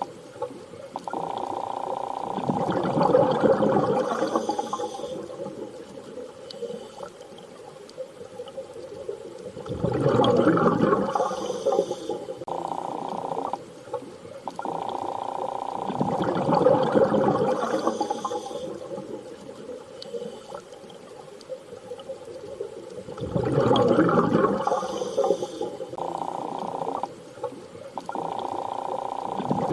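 Underwater water ambience: surging washes that swell and fade about every seven seconds, with short stretches of a steady humming tone between them, repeating as a loop.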